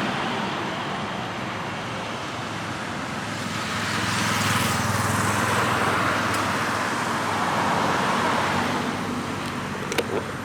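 Road traffic on a city street: motor vehicles passing, one swelling and fading about halfway through and another a little later. A short sharp click near the end.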